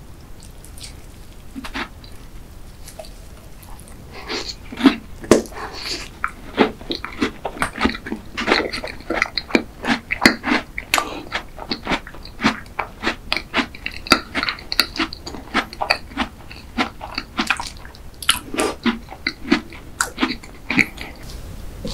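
Close-miked chewing of a bite of cherry cheese tart: a dense run of short, wet clicking mouth sounds that starts about four seconds in.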